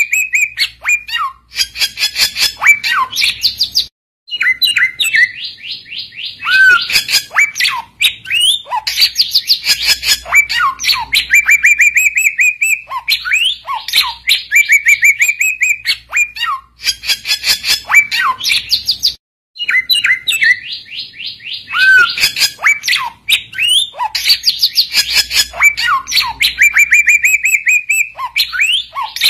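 Samyong songbird singing loudly in long phrases of rapid chirps and clear whistled notes. The phrases break off briefly about four seconds in and again near the end, and the same song sequence repeats about every fifteen seconds, as a looped training recording for calling rival samyong.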